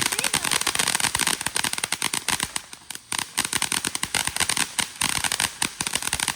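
Ground firework crackling: a dense, rapid run of small sharp pops, easing briefly around the middle before picking up again.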